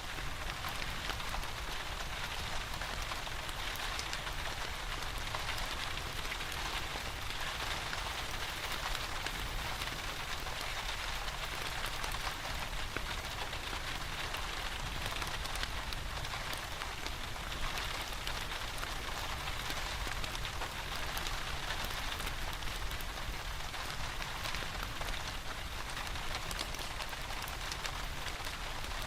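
Steady rain falling, with a wood fire crackling in a fireplace.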